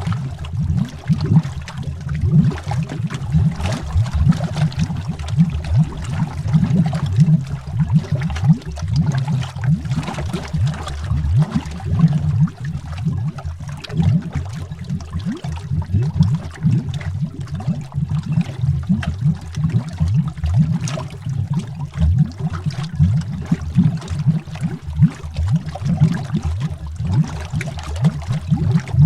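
Underwater bubbles: a dense, continuous stream of bubbles gurgling and popping with a deep, muffled low end.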